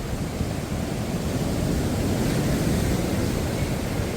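Rough surf washing onto a sandy beach: a steady rush of noise that swells to a peak about two seconds in and eases off toward the end.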